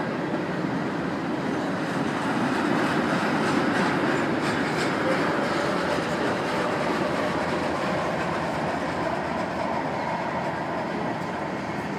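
Freight train cars (tank cars and covered hoppers) rolling past on steel rails: a steady rumble of wheels on track, with a few wheel clicks over rail joints about four seconds in. It is loudest around then and eases off a little toward the end.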